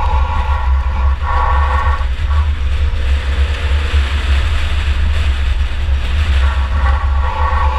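Engine and road noise of a 2004 Chevy Impala enduro race car, heard from inside the car: a heavy, steady low rumble, with a hissing rush that swells in the middle.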